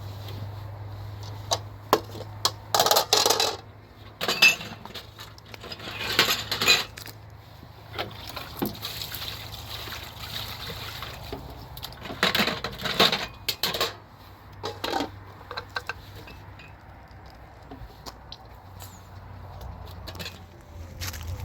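Intermittent clinks, clatters and scraping noises of objects being handled, in several short bursts, over a low steady hum that fades a few seconds in and comes back near the end.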